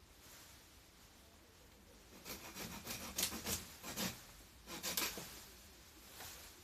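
A run of rough, rasping strokes of woody garden growth being worked. It starts about two seconds in and lasts about three seconds.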